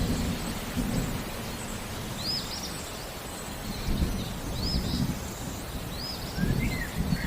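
Steady rain with low rolling thunder that swells several times. Over it a bird repeats a short, high, curved chirp about once a second, and a lower chirping call joins near the end.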